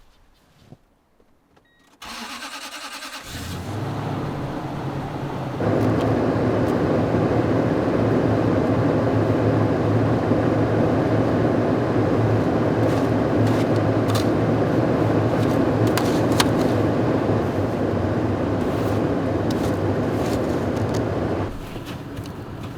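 A pickup truck's engine cranked by the starter for about a second, catching and settling into a steady idle. About five and a half seconds in the sound steps up louder and fuller, and it drops back near the end.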